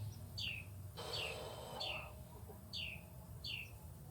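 A bird calling: a short chirp that slides down in pitch, repeated about five times, roughly once a second, with a soft rustling noise about a second in.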